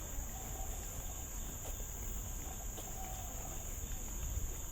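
Steady, high-pitched drone of a tropical insect chorus in forest, unbroken throughout, over a low rumble.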